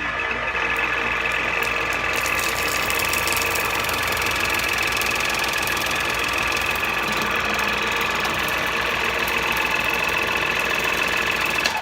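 Electric water flosser's pump motor buzzing steadily as it squirts water, on its lowest pressure setting; it is switched off suddenly near the end.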